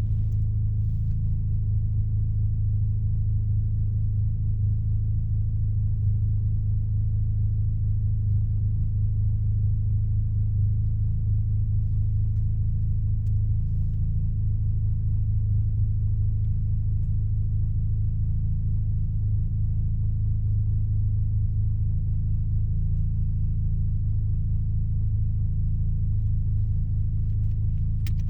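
Mazda RX-7's rotary engine running steadily through an RE Amemiya Dolphin Tail aftermarket exhaust, an even low drone with no revving, heard from inside the cabin with the windows down.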